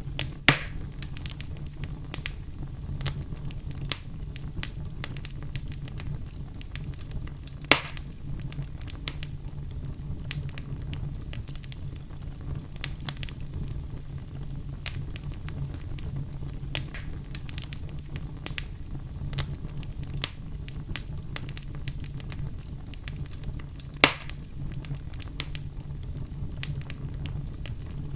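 Wood fire burning in a fireplace: a steady low rumble with constant small crackles, and three louder sharp pops, one just after the start, one about eight seconds in and one about twenty-four seconds in.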